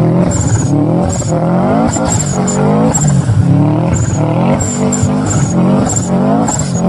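Turbocharged car engine revved in quick repeated blips, each rising in pitch and dropping back, with short high chirps as the turbo's boost is released between revs.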